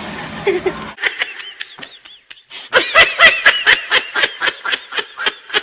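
High-pitched laughter in a rapid run of bursts, about five a second, faint at first and much louder from about halfway through.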